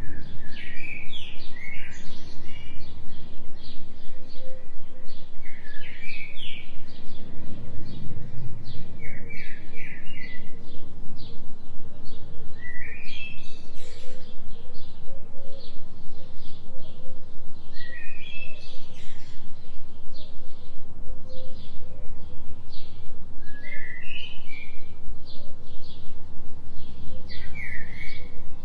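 Bird chirping in short phrases every few seconds, over a steady low drone that pulses evenly several times a second, the binaural delta-wave tone mixed into the forest ambience.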